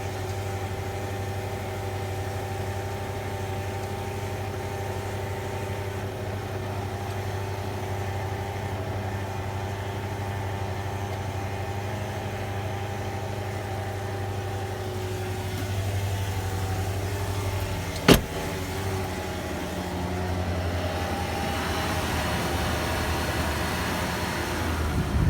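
2003 Range Rover engine idling with steady tones over the engine note: the whine the owner traces to the lower timing chain cover area since new timing chains and guides were fitted. A single sharp click about three-quarters of the way through, after which the engine note shifts slightly.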